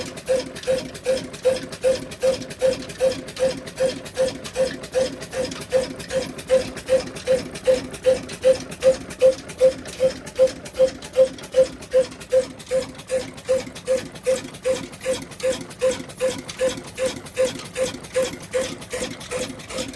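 Diesel engine running slowly and evenly under the load of a chakki flour mill, its exhaust beating a little over twice a second.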